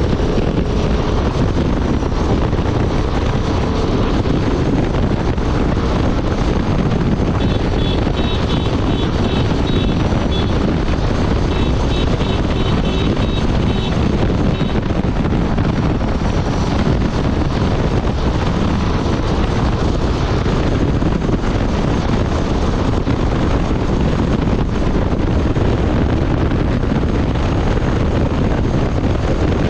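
Honda Transalp 750's parallel-twin engine running steadily at highway speed, largely buried under loud wind rush over the microphone. A rapid high-pitched beeping sounds for about three seconds, twice, a little before the middle.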